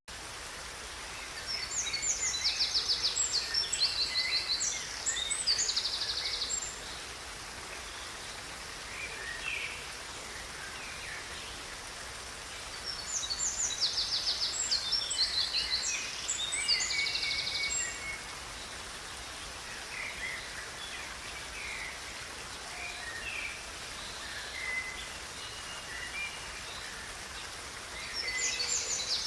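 A songbird singing loud phrases of rapid high trills, repeated about every eleven seconds, with softer chirps from other birds between, over the steady rush of river water.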